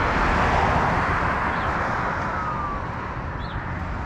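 Road traffic passing through an intersection: a steady rush of tyre and engine noise, loudest in the first second or so and easing a little after.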